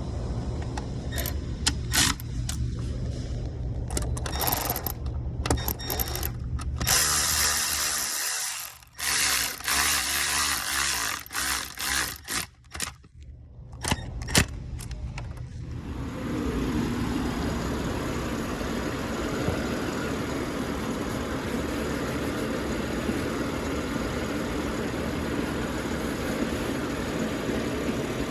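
Sharp clicks and clunks over a low steady hum. From about sixteen seconds in, the even, steady engine and road noise of the 2019 BMW X5 under way, heard from inside the cabin.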